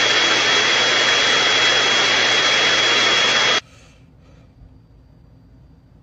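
Loud steady rushing machine noise with a thin high whine, cutting off abruptly about three and a half seconds in, followed by faint room sound.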